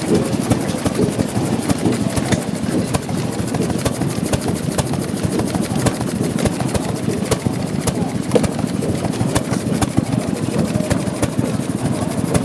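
Old Ellis stationary engine running steadily, a fast, even train of firing beats with no change in speed.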